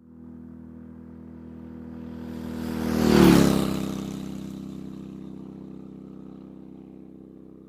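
Motorcycle engine passing by: it grows louder, is loudest about three seconds in with a drop in pitch, then fades as it moves away.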